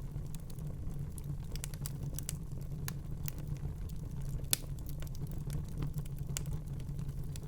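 Fire crackling in a fireplace: a steady low rumble with frequent sharp pops and snaps, the sharpest pop about four and a half seconds in.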